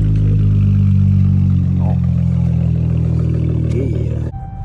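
Straight-piped Dodge Charger GT's 3.6-litre V6, with its mid mufflers and a resonator removed, idling loud and steady just after start-up. The sound drops off sharply near the end.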